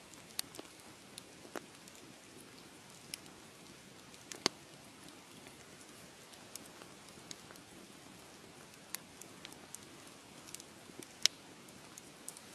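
Wood fire crackling: irregular sharp pops and snaps over a soft steady hiss, with a louder snap about four and a half seconds in and another near the end.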